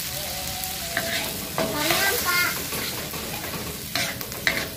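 Blended chili spice paste sizzling in hot oil in a wok as a metal spatula stirs it, being sautéed until fragrant. A few sharp scrapes and knocks of the spatula against the wok, about a second in and near the end.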